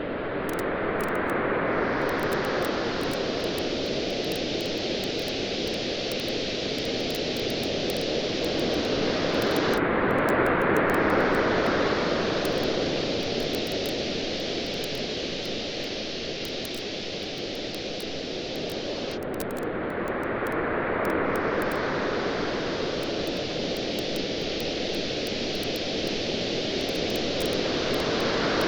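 Ocean waves washing in and drawing back, rising and falling about every nine to ten seconds, with a campfire crackling in small, quick pops over them.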